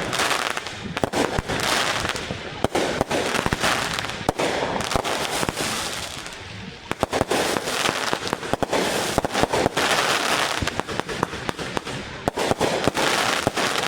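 Fireworks and firecrackers going off in a dense, rapid run of sharp cracks and crackling. They die down briefly about six seconds in, then pick up again.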